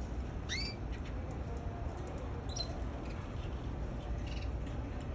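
Canary giving a few short chirps rather than full song: one sweeping chirp about half a second in, another around two and a half seconds, and a brief buzzy note a little after four seconds, with faint clicks over a steady low background hum.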